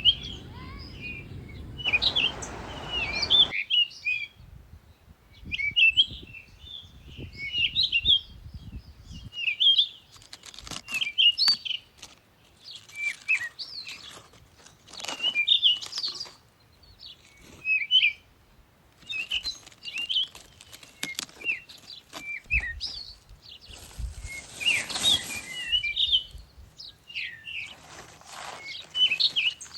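Songbirds singing: short, quick chirping phrases repeated every second or two, with occasional clicks and two brief bursts of rustling.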